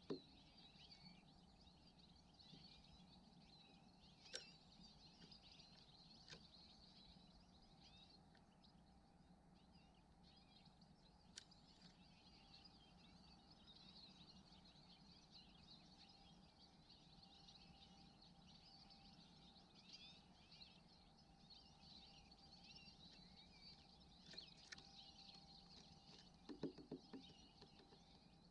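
Faint, continuous high twittering of goldfinches, with a few sharp clicks. Near the end comes a short run of rapid low taps, a woodpecker pecking at wood.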